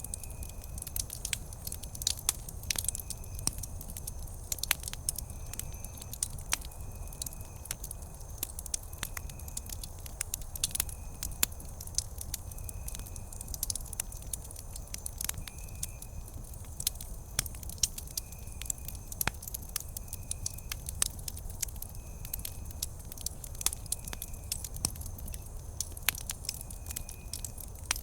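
Wood campfire crackling, with frequent sharp irregular pops over a steady low rumble of the burning fire. A faint short high note repeats about once a second in the background.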